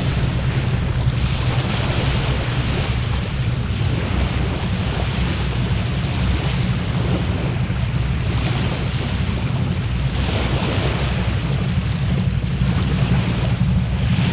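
Wood fire burning in a fire pit: a steady rushing noise of the flames with a low rumble underneath.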